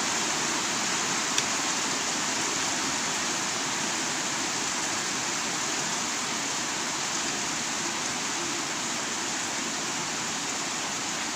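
Rain falling steadily, an even hiss with no break, with one short sharp tick about a second and a half in.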